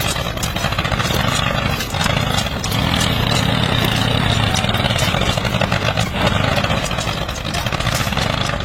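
Small motor of a home-built mini tractor running steadily, with a dense whirring buzz that ends abruptly.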